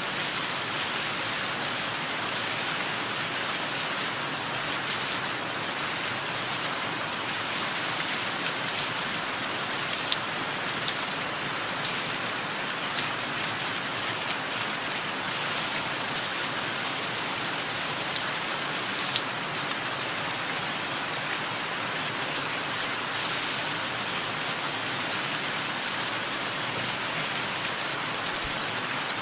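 Steady rain hiss, with a small bird giving short, high, falling chirps in quick pairs or threes every few seconds.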